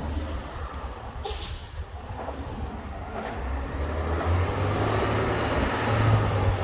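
Garbage truck's engine running, with a short sharp hiss of air about a second in, then the engine growing louder over the last few seconds.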